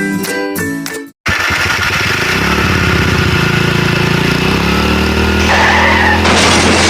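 Background music stops about a second in, then a motor vehicle engine runs steadily, its pitch rising a little as it revs up.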